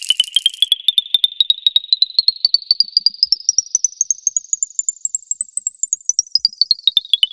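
Electronic music build-up: a rapid stream of short synthesizer notes sweeping steadily upward in pitch, then turning and falling back down near the end. A hissing, rattle-like layer drops out in the first second.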